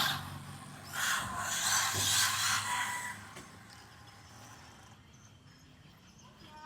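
ZD Racing EX07 electric RC car running: a faint whine from its electric motor over the hiss of its tyres, dying away after about three seconds.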